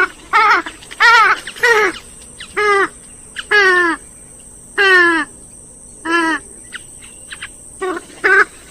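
Grey-headed swamphen calling: a series of about ten short, loud calls, each a quick note that mostly falls in pitch, coming at uneven intervals.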